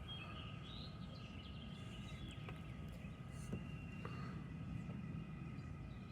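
Quiet outdoor background: a steady low rumble and faint hum, with occasional faint bird chirps and a few small clicks.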